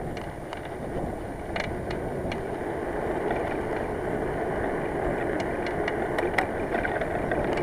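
Bicycle rolling at speed, steady tyre and wind noise growing louder, with scattered sharp rattling taps from the plastic rim of a handlebar mirror bouncing against the bull-horn bars.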